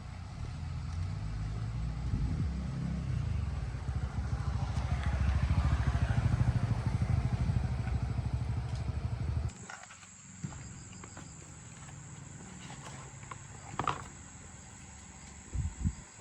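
Motorbike engine running with a low, pulsing rumble that grows louder, then cuts off suddenly about nine and a half seconds in. A few faint clicks follow.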